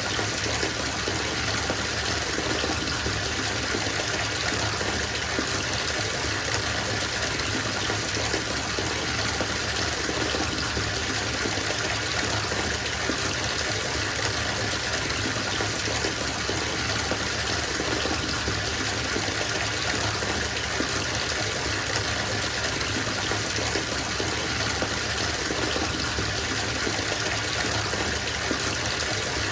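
Bathtub filling from the tap: a steady gush of water pouring into standing bath water.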